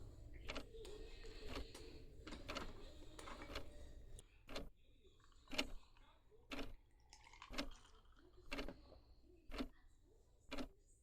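Clock ticking about once a second. For the first few seconds there is also faint handling noise, which fades out about four seconds in.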